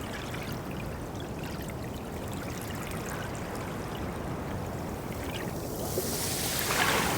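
Steady underwater water ambience, a soft even rushing, which swells into a louder, brighter rush near the end.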